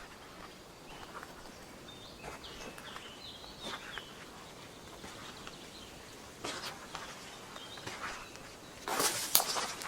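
Footsteps crunching and rustling irregularly through forest-floor litter, loudest in a cluster near the end. A small bird gives a few short high chirps about two to four seconds in.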